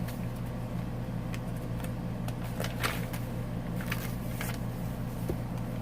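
Paper pages and tucked-in tags of a handmade journal being handled and turned, giving scattered light rustles and taps over a steady low hum.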